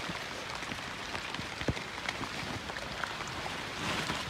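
Rain falling: a steady hiss of rainfall with many small drops ticking irregularly, and one louder knock about one and a half seconds in.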